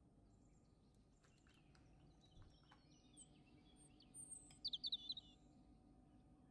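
Near silence with faint, high bird chirps, a brief louder flurry of them about four to five seconds in, and a few soft clicks.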